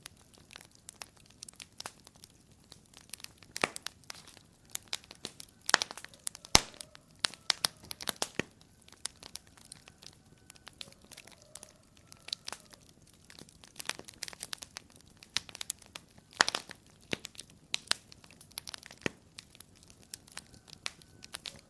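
Wood fire in a fireplace crackling, with irregular sharp pops and snaps, a few louder ones, over a soft steady hiss.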